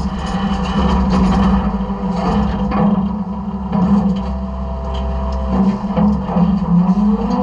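Side-loader garbage truck running, a steady low engine and hydraulic drone with scattered metal clanks and rattles from the hopper and a faint whine.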